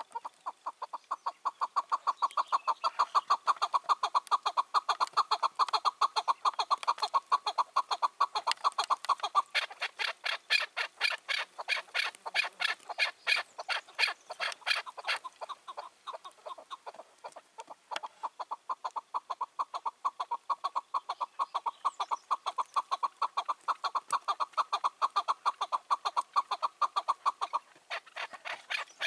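Chukar partridges calling: a long, unbroken series of rapid clucking calls, several a second. For several seconds in the middle the calls turn harsher and higher.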